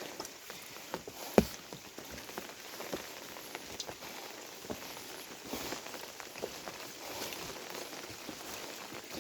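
Steady rain pattering, with scattered light taps and one sharper knock about a second and a half in.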